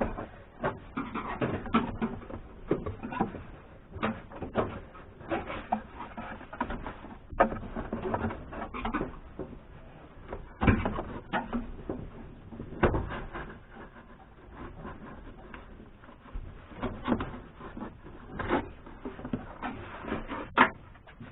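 Irregular clicks, knocks and rustling of a car's interior trim and headliner being worked loose by hand, with a couple of sharper knocks about halfway through.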